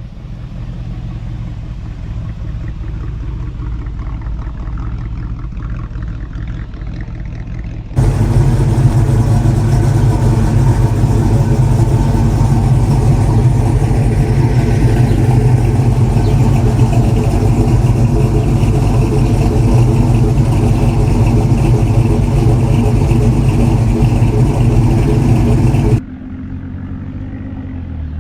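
Car engines running. One loud engine idles steadily close by, starting abruptly about 8 seconds in and stopping abruptly a couple of seconds before the end, over a quieter engine sound.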